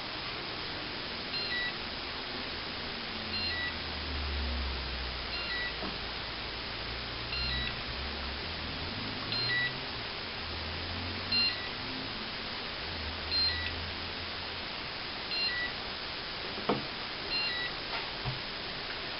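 Radio transmitter of a Ladybird mini quadcopter giving a short high beep about every two seconds, repeating steadily while it is switched on and fails to pair with the quadcopter.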